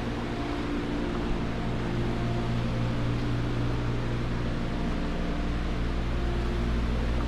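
Steady low machine hum: a constant drone made of several even, unchanging tones under a hiss, with nothing starting or stopping.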